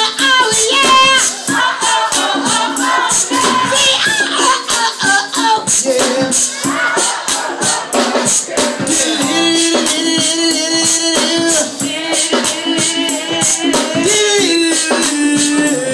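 Live band music with singing, over steady rapid hand-percussion strokes.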